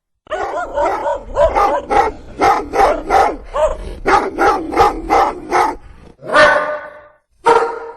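A dog barking: a quick run of barks, two to three a second, for about five seconds, then two louder single barks near the end.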